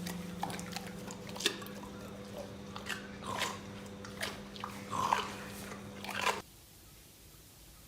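Crunching and chewing in short irregular bites over a steady low hum, cutting off suddenly about six seconds in.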